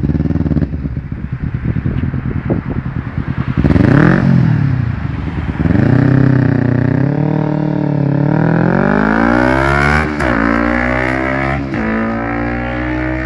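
Kawasaki Ninja 250R's parallel-twin engine through an aftermarket M4 exhaust, idling with a choppy beat, then blipped up and down about four seconds in. From about six seconds the revs climb steadily, dropping and climbing again twice near the end.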